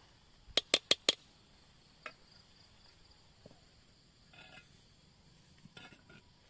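Four sharp knocks or clicks in quick succession about half a second in, then a single fainter one a second later.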